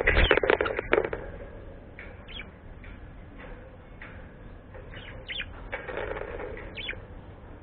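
A bird's wings flapping in a quick run of beats during the first second, then a few short high chirps.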